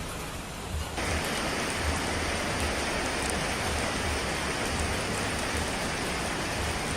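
Steady rain noise, an even hiss of falling water with a low rumble beneath. About a second in it turns abruptly louder and brighter, then holds steady.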